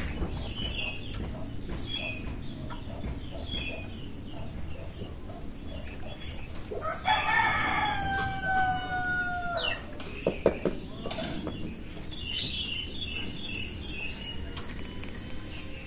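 A rooster crows once, a long call that falls slightly in pitch, while small birds chirp in short high notes before and after it.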